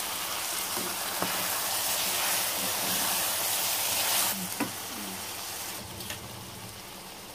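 Chicken pieces and fresh coriander sizzling as they fry in oil in a pressure cooker pot, with a spatula stirring now and then. The sizzle gets quieter about four seconds in.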